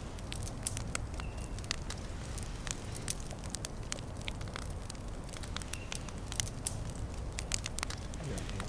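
Small campfire crackling: sharp, irregular pops over a steady low rumble.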